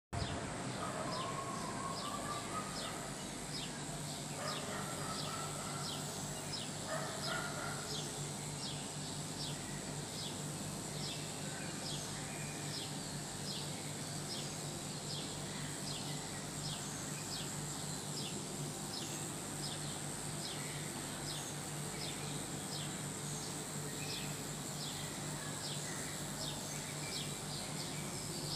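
Birds calling before dawn: a short high descending note repeated steadily, nearly twice a second, with a few lower whistled phrases in the first eight seconds. A steady low hum runs underneath.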